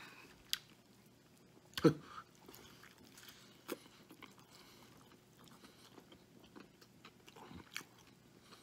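A man chewing a mouthful of Wendy's Triple Baconator bacon cheeseburger, with faint wet mouth clicks scattered throughout and one louder short sound about two seconds in.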